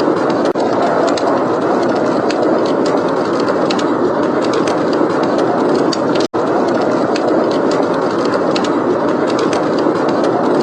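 Steady, loud blizzard wind with wood fire crackling over it in many small sharp pops. The sound cuts out for an instant about six seconds in.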